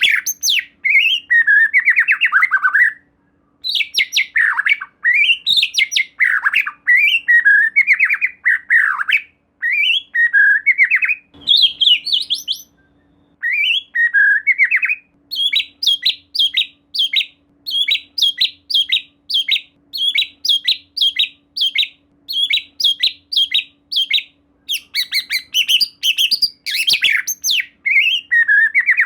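White-rumped shama (murai batu) in full song: loud, rapid, varied whistled phrases with a couple of short pauses. In the middle comes a long run of quick, evenly repeated sharp notes, about two or three a second. A faint steady hum lies underneath.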